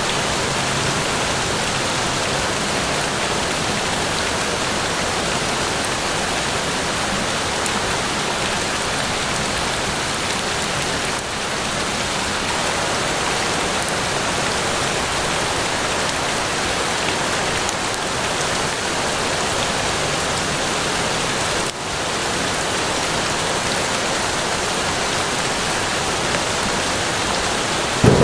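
Steady rain falling: a dense, even hiss of drops that holds level throughout.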